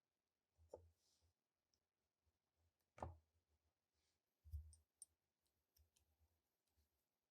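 Near silence with a few faint clicks and soft knocks, the loudest about three seconds in.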